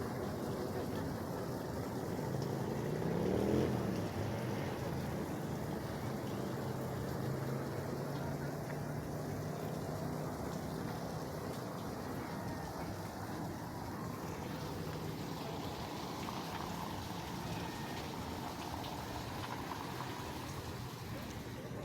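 A motor engine running: its pitch rises about three seconds in, then it holds a steady low hum that fades away in the second half, over constant outdoor background noise.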